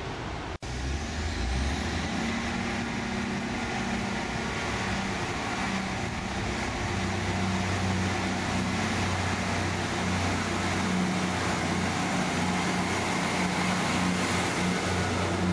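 Passenger trains at a station platform: a steady low engine hum, with a train moving along the platform and the sound growing a little louder near the end.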